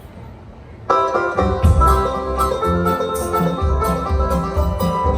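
A bluegrass band starts playing about a second in, with a banjo-led instrumental intro over guitar and a steady low beat, after a moment of room tone.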